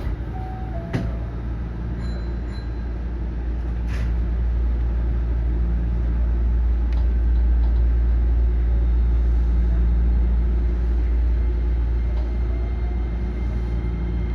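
Hankyu 9300-series electric train running: a steady low rumble that grows louder over the first half, with a couple of faint clicks.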